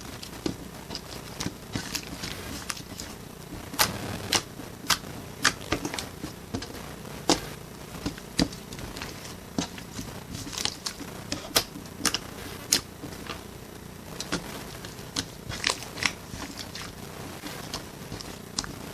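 Irregular sharp clicks and taps at an uneven pace, several clearly louder than the rest, over a low steady background.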